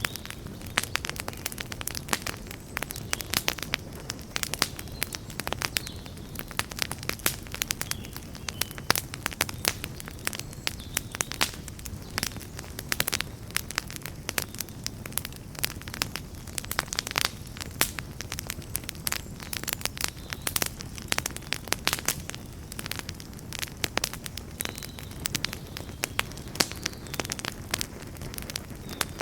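Wood fire burning: frequent irregular sharp crackles and pops over a steady low rumble of flame.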